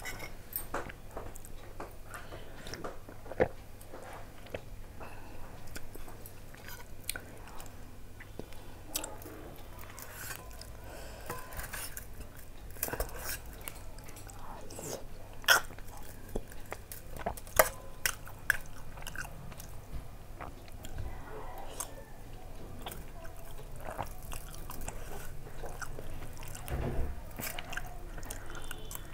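Close-up chewing and mouth sounds of someone eating soft, syrupy jaggery rasgullas, broken by occasional sharp clicks of a steel spoon against a steel bowl.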